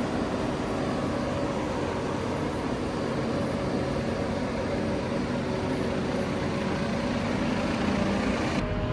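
Claas Jaguar forage harvester running steadily under load as it cuts and chops standing maize, a continuous machine drone with a steady engine tone. The sound changes abruptly just before the end.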